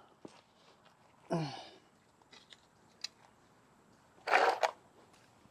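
Mostly quiet. About a second in there is a short grunt-like voice sound, then a few faint clicks, and a sharp breathy burst like a sneeze or hard exhale near the end.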